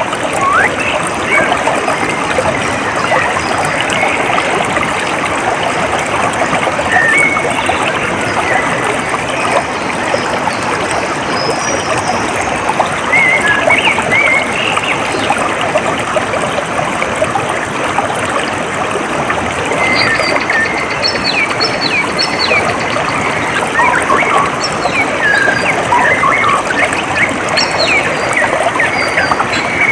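Steady trickling, babbling water, with short bird chirps and calls scattered over it, more of them in the second half.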